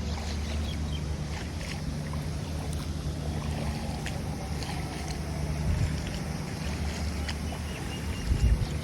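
Steady low motor drone over outdoor noise, with a few low thumps near the end.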